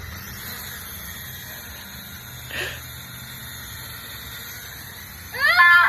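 Small toy drone's motors and propellers whirring steadily, a thin high whine over a low hum. Near the end a loud, high, rising cry from a voice cuts in.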